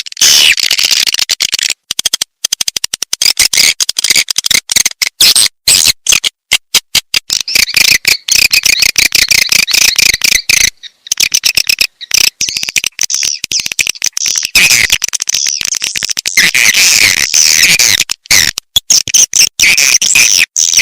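Recorded swiftlet lure call: dense, high-pitched twittering chirps of swiftlets played on a loop, the kind of call sound used to attract swiftlets to a nest house. The chatter is choppy with many brief dropouts and a short pause about halfway.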